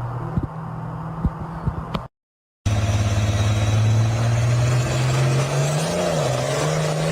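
A steady low hum with a few sharp clicks, cut off about two seconds in. After half a second of silence, a louder engine starts running steadily and rises a little in pitch, revving up, after about five seconds.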